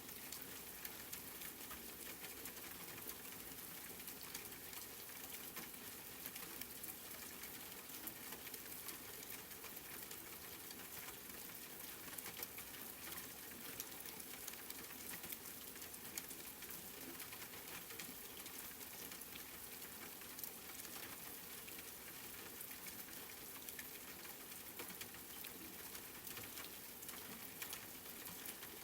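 Steady rain falling: an even hiss dense with small, sharp drop ticks that keeps on without a break.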